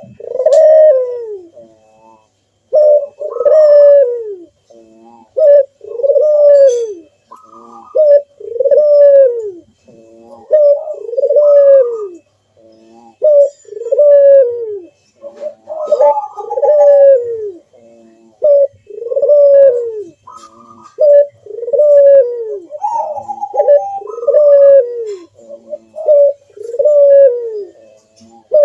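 Barbary dove (burung puter) cooing its loud 'manggung' song. About twenty short coos follow one another in quick succession, each arching up and then sliding down in pitch.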